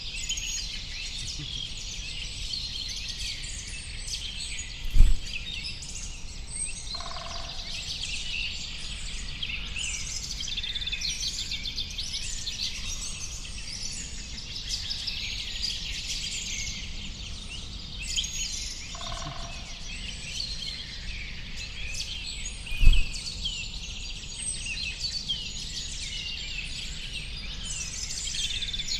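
Dense chorus of many small songbirds chirping and twittering, high-pitched, without a break. A lower bird call sounds briefly twice. A short low thump comes twice, far apart, and is louder than the chorus.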